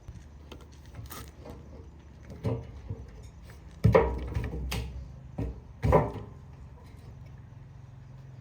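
A few separate sharp knocks, the loudest about four and six seconds in, over a low steady hum.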